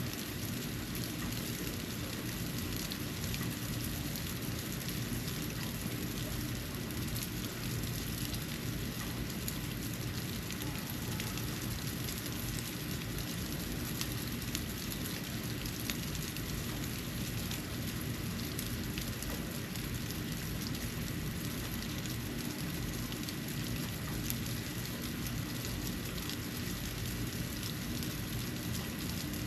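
Snow falling: a steady hiss with a dense patter of tiny ticks as flakes land.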